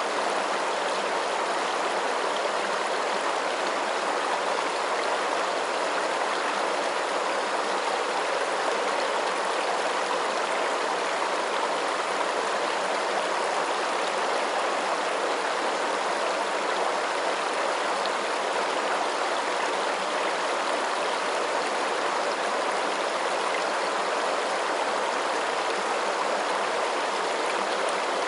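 Flowing water making a steady, even rushing sound that does not change.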